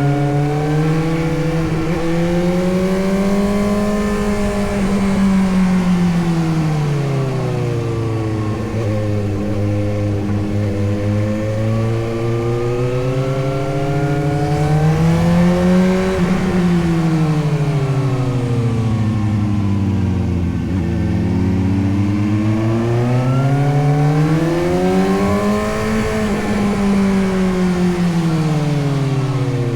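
Suzuki GSX-S750's inline four-cylinder engine under way, its note climbing and falling smoothly with the throttle. The pitch rises three times, peaking about 4, 16 and 26 seconds in, and falls away between the peaks.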